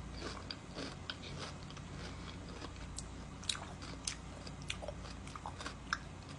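A person chewing a bite of pickle with the mouth close to the microphone: faint, irregular clicks of chewing.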